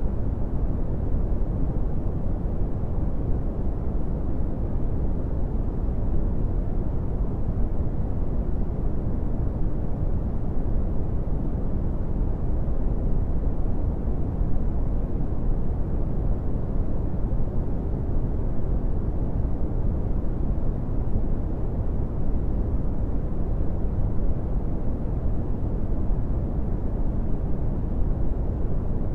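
Brown noise: a steady, deep hiss weighted heavily to the low end, with little treble and no change.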